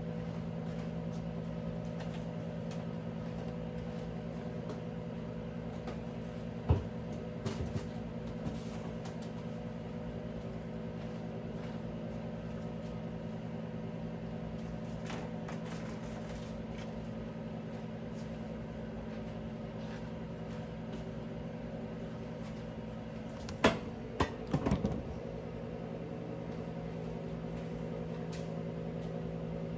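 Steady appliance hum, with a few short knocks and clatters about seven seconds in and a louder cluster of them around twenty-four seconds in.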